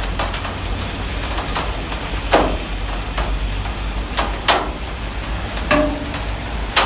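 Heavy rain falling steadily over a low rumble, with four loud, irregular drops or drips knocking on a hard surface, a couple of them leaving a short ringing tone.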